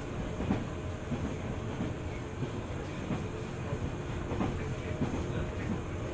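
JR 205 series 600-subseries electric multiple unit running along the line, with a steady rumble and a few steady tones. The wheels click irregularly over rail joints.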